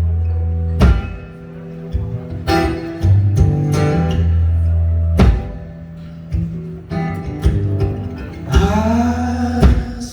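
Live band playing an instrumental passage: guitar over deep sustained bass notes and keyboard chords, punctuated by hard drum hits every couple of seconds. Near the end a bending, sliding melodic line comes in.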